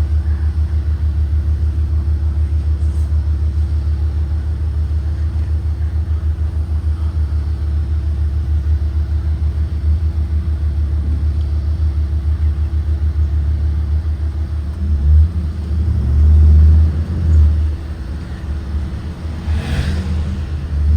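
Blue Bird Vision propane school bus running with a steady low engine rumble. About fifteen seconds in, the engine surges louder for a few seconds, and a short hiss follows near the end.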